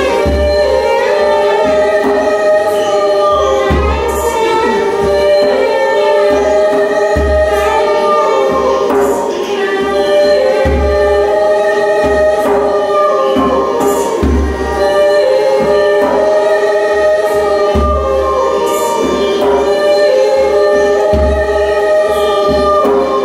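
Music of layered, sustained singing voices over a low pulse that returns about every three and a half seconds.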